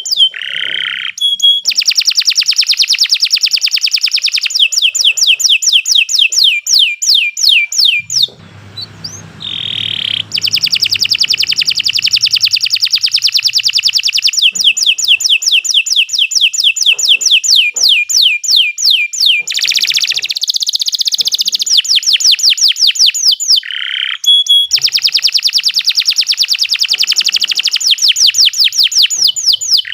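Domestic canary singing a long, nearly unbroken song. It is mostly rapid trills of short rising notes, about ten a second, with a few lower rolled phrases and a brief pause with one held whistle about eight seconds in.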